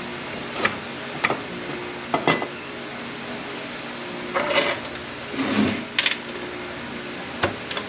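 Metal-on-metal clinks and knocks as the support is worked out of an A650E automatic transmission case, about seven sharp hits with a longer scraping rattle about halfway through. A steady low hum runs underneath.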